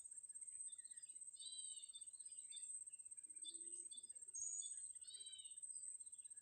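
Blue-crowned hanging parrots (serindit) calling faintly, with clusters of short high chirps every second or so. A continuous high, fast-pulsing trill runs underneath.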